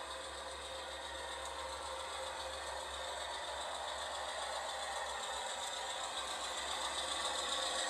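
A train drawing nearer, its running noise and rattling growing steadily louder.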